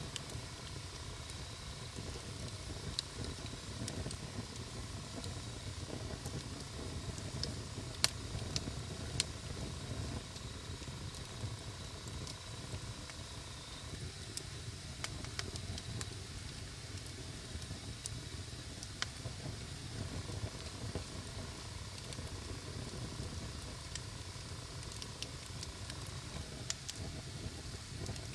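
Wood campfire burning with a steady low rumble and hiss, with scattered sharp pops and crackles, the loudest about eight and nine seconds in.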